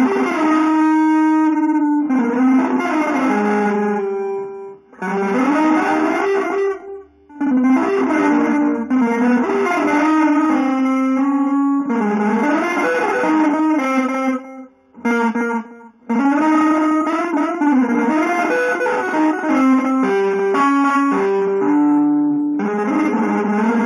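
Guitar playing a run of musical phrases, each a couple of seconds long with short breaks between them, the notes ringing on.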